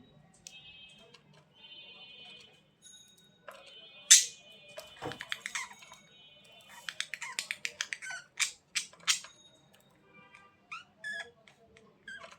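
Budgerigars chattering: buzzy warbling trills, a loud sharp chirp about four seconds in, then a quick run of clicks and short chirps.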